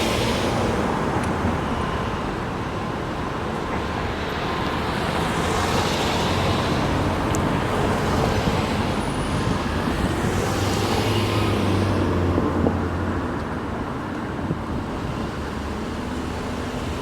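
Road traffic going by: a steady wash of car and tyre noise, with single vehicles swelling past every few seconds.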